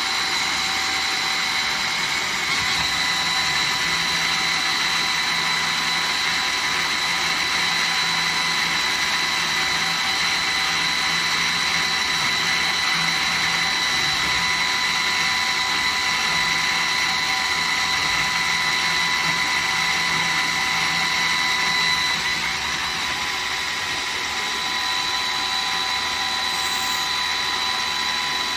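2001 Traub TNL 26 CNC Swiss-type lathe running, a steady mechanical hiss with several high whines. About 22 seconds in, one whine and a low hum drop out and the level dips slightly.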